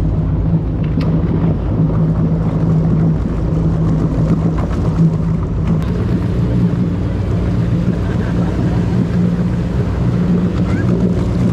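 Amphibious car's engine running steadily with a constant low drone as it motors through the water, with wind and water noise over it.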